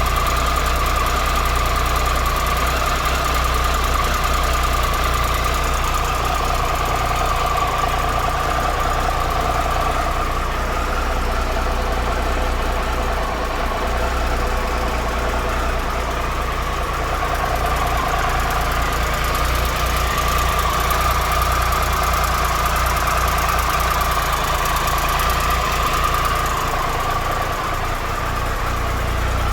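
Triumph Tiger Explorer's 1215 cc three-cylinder engine idling steadily, with a light mechanical tick. The tick has persisted after a new cam chain, hydraulic cam chain tensioner and exhaust header gaskets, and the mechanic judges it to be normal engine noise.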